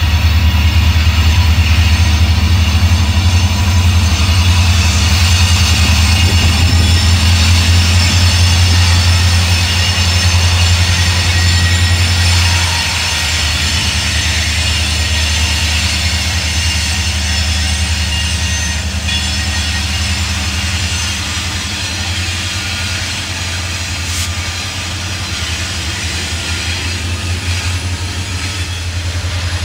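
A train running close by: a locomotive engine's steady low drone under the noise of the train on the rails, easing slightly in loudness about halfway through.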